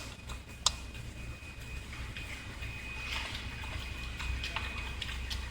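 A few light metallic clicks and taps as small bolts are handled and set into an engine cover, two sharper ones in the first second, over a low steady hum.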